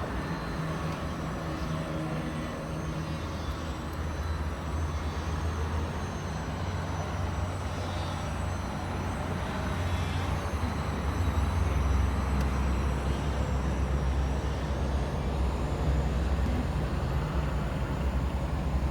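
A vehicle engine running steadily, with a low rumble that grows louder about ten seconds in.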